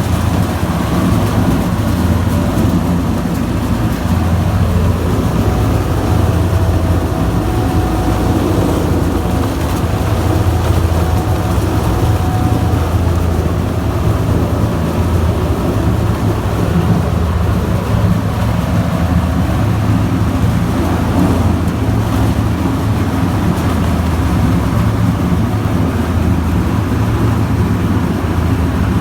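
Diesel engine running steadily at a constant speed, driving a foam-shredding machine on a test run.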